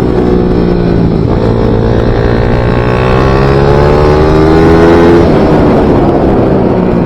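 Pit bike engine at full throttle on track, its pitch climbing steadily for about four seconds as it accelerates, then falling sharply about five seconds in and running on at a lower pitch.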